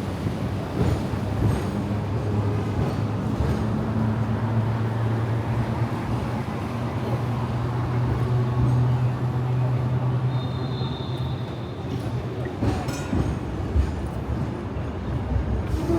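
Hong Kong double-decker electric tram running: a steady low motor hum over wheel-and-track rumble, with a brief high squeal about ten seconds in and a few sharp clicks a little later.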